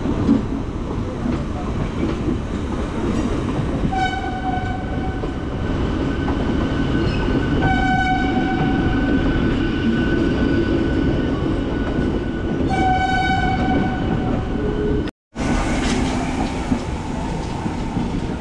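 Passenger train running over the rails, a steady rumble heard from aboard the moving coach. A train horn sounds three times: about four seconds in, more briefly near eight seconds, and again about thirteen seconds in. The sound drops out for a moment soon after the third blast.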